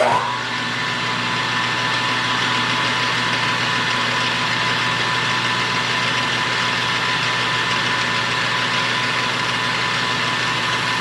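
Metal lathe running under a cut, the tool feeding along a turned diameter: a steady machine hum with a high, even whine.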